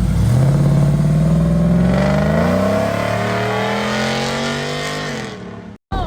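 Car engine accelerating hard, its pitch climbing steadily for about three seconds, then holding and easing off near the end.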